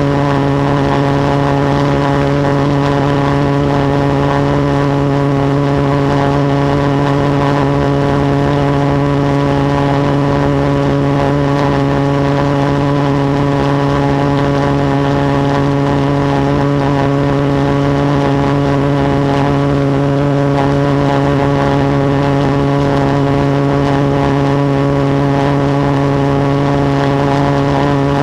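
Reed-valve pulse jet engine running steadily at full power, a loud, even, low buzzing drone whose pitch holds constant throughout.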